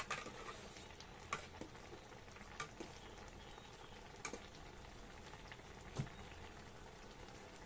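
Faint steady simmering of a pot of soup on a stove, with a few scattered sharp clicks, about five, several seconds apart.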